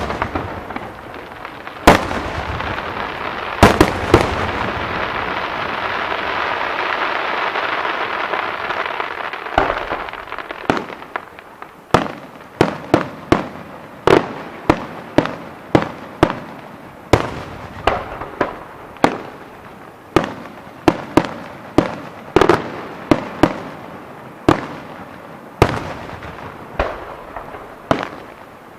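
Fireworks display: a few loud bangs, then several seconds of dense continuous noise from the bursts, then a quick run of sharp bangs, about two a second, that goes on to the end.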